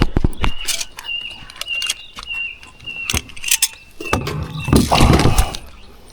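Clattering clicks and knocks in a small boat as a just-landed barramundi is handled, with a louder rustling scuffle about four seconds in. A thin, wavering high tone runs through the first half.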